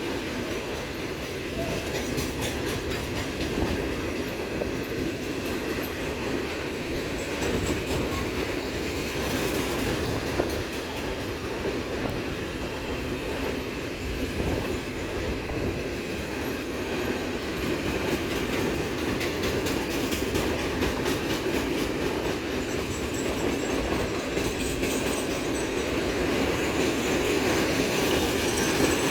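Military train's cars rolling steadily past, wheels rumbling on the rails with a run of clicking over the rail joints.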